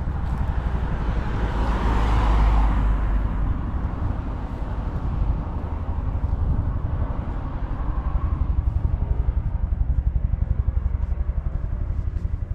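Helicopter rotor chopping with a fast, even pulse, heard as a low rumble, swelling briefly about two seconds in.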